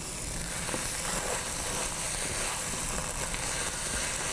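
Egg frying in hot bacon grease in a wok, giving a steady sizzle.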